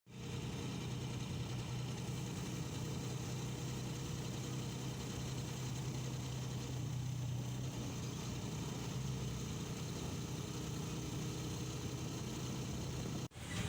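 Steady low engine hum with a noisy hiss above it, dropping out briefly near the end.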